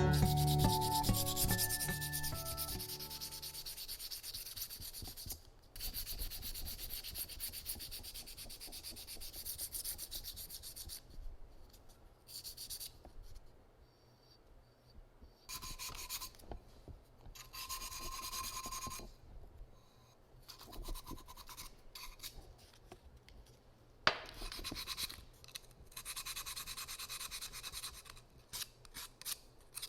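Quick abrasive rubbing strokes on a ceramic piece being mended with lacquer in the kintsugi way. They come in stretches of a few seconds with short pauses between them, and there is one sharp tap about two-thirds of the way through.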